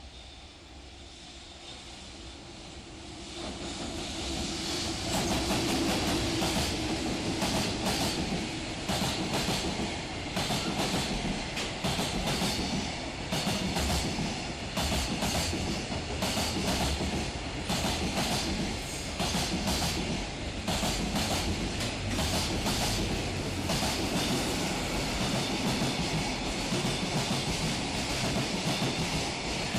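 Freight train passing close by: it builds up over the first five seconds, then a steady clatter of wheels over rail joints as the wagons roll past.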